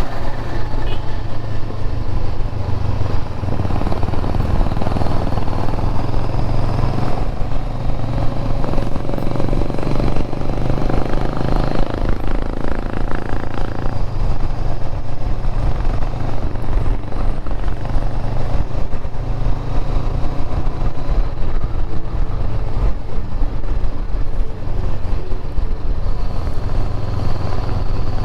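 A motorcycle engine running steadily while riding, with a low, even exhaust note.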